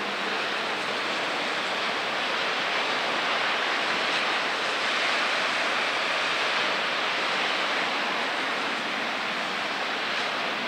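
Heavy thunderstorm rain falling in a steady rush, growing slightly louder partway through.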